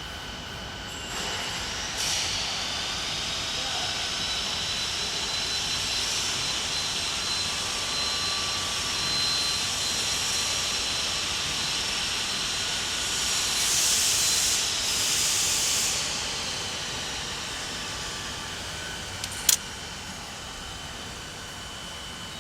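Mixed CO2 laser cutter cutting metal plate: a steady hiss with a faint high whine that sets in about a second in. It swells louder for about two seconds past the middle, and there is one sharp click near the end.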